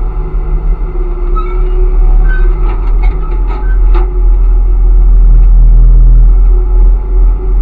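Garbage truck rumbling heavily, with a run of clattering knocks in the middle. Near the end the low rumble swells louder for a second or two, then eases.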